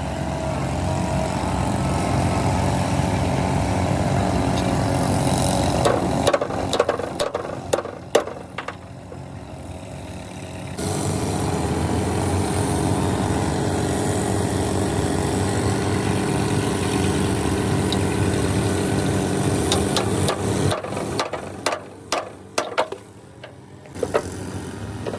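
An engine running steadily at idle, twice broken by a cluster of sharp metallic knocks and clanks.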